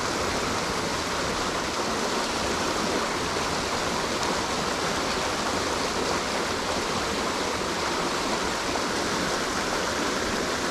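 Creek water rushing steadily, a constant even wash of noise from a stream running high with flood water.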